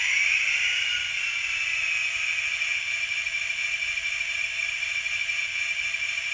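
Diesel locomotive engine sound from an XL Systems sound decoder, played through the tiny speaker of an N scale Kato SD70: a steady whine with no bass. Its pitch glides up and settles about a second in.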